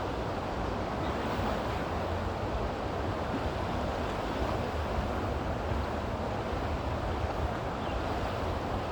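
Steady rushing noise of wind buffeting the microphone over running water, even throughout.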